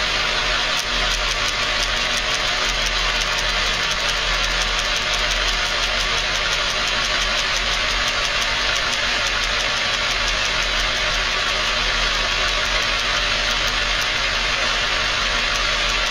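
Car engine running steadily, with a rapid run of sharp ticks from the spark plugs. The plugs are out of the head and grounded against it, snapping as they fire in open air.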